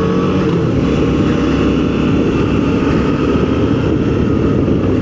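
Motorcycle riding along, its engine running steadily under a heavy rush of wind and road noise.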